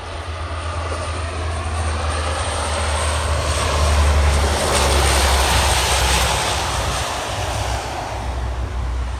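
Fixed-wing aircraft flying past: a loud engine rush with a low hum that swells to its loudest about halfway through, then fades.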